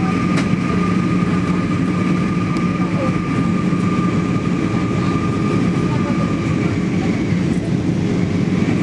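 Airliner cabin noise in flight: a steady engine and airflow drone with a low hum and a thin, steady whine above it.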